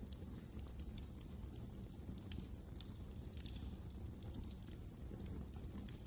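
Wood fire crackling in a fireplace: many small irregular pops and snaps over a low steady rumble.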